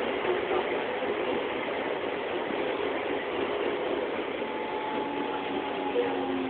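Interior of a Seibu 6000 series electric train standing at a station platform: a steady hum and hiss from the car's running equipment. Faint steady tones join in during the second half.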